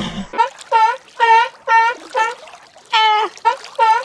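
A quick series of short, pitched animal calls, about two a second, each call brief and nasal-toned.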